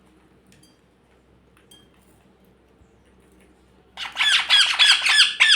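Ringneck parrot calling: after a quiet stretch with a few faint clicks, it breaks into a rapid run of loud, shrill repeated calls about four seconds in.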